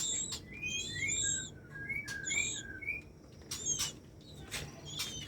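A run of short, high chirps from white-rumped shamas at the nest, about a dozen in the first three seconds and a few more near the end, with several sharp clicks in between.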